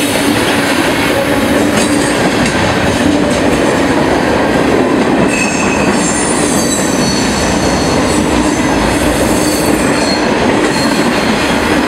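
Freight train of tank cars rolling past at close range: a loud, steady rumble of steel wheels on the rails, with short high squeals from the wheels now and then.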